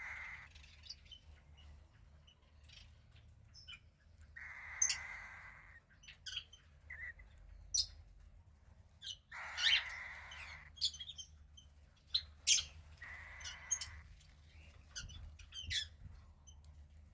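Cockatiel chick calling: four raspy, drawn-out calls of about a second each, with many short, sharp high chirps in between.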